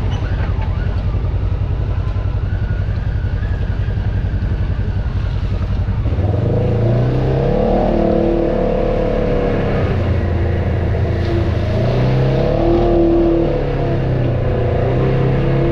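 Off-road vehicle engine under way, at first a low rumble. About six seconds in the engine note comes up and revs rise and fall several times under throttle.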